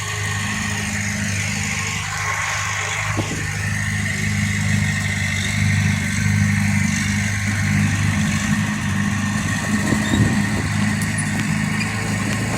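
Bulldozer's diesel engine running at a steady speed, growing a little louder and rougher in the second half.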